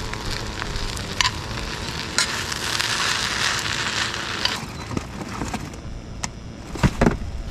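Takana fried rice sizzling in a skillet as it is stirred and tossed with a metal utensil. The sizzle swells about two seconds in and dies down about halfway through, followed by a few sharp clicks near the end.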